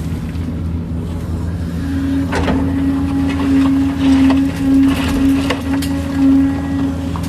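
Kobelco excavator's diesel engine running steadily. From about two seconds in its note grows louder and swells several times, with a few scattered knocks.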